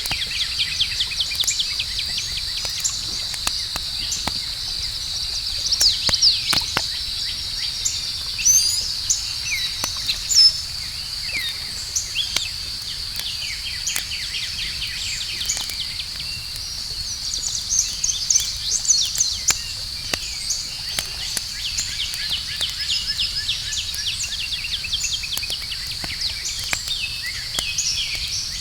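Campfire crackling with scattered sharp pops, one louder pop about ten seconds in, over a steady high trill of crickets and intermittent bird chirps.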